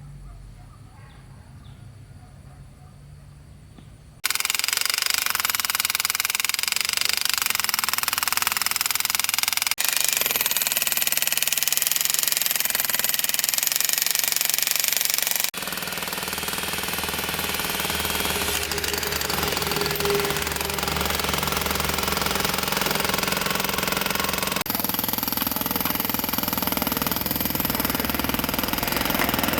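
Loud, steady noise of construction machinery, starting suddenly about four seconds in. It breaks off abruptly and resumes three times, changing character at each break.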